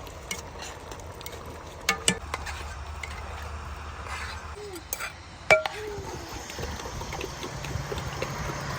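A few sharp clinks of dishes and utensils, the loudest about five and a half seconds in, over steady background noise.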